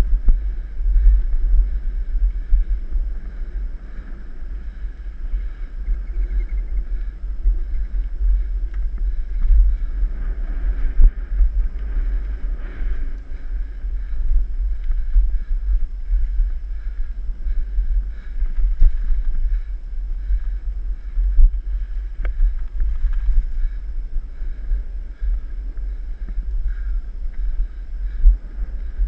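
Wind buffeting the microphone on a moving mountain bike: a continuous low rumble that flutters up and down in loudness, with a few faint clicks from the trail.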